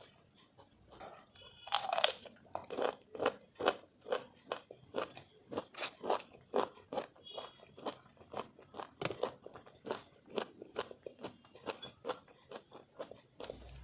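Close-miked biting and chewing of raw sour mango: a loud crisp bite about two seconds in, then steady crunchy chewing at about two crunches a second.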